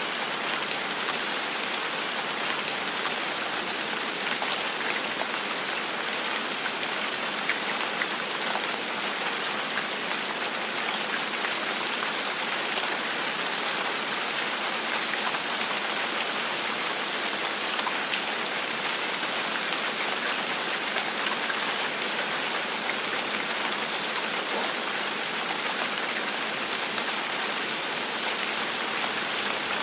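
Steady gentle rain falling, an even hiss of drops with faint scattered taps.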